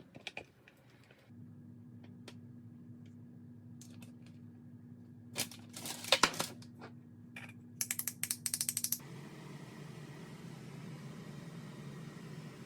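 Home kitchen cooking sounds: an appliance hum starts, then a few clatters and knocks, a fast run of sharp clicks for about a second, and after it a steady rushing noise replaces the hum.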